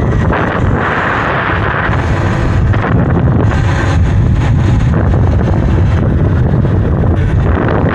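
Wind buffeting the microphone of a rider moving on an electric dirt bike: a steady, loud rush with no clear tone.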